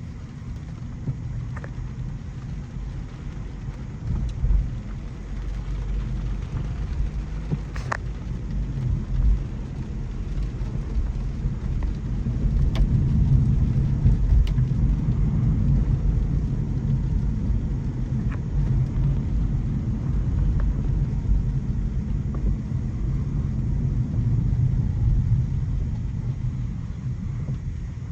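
2025 Mercedes-Benz C300e driving on wet city streets: a steady low road and tyre rumble that grows louder about midway, with a few faint clicks.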